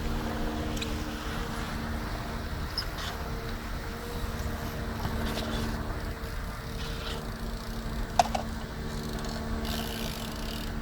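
A steady mechanical engine hum with low outdoor rumble, and a single sharp click about eight seconds in.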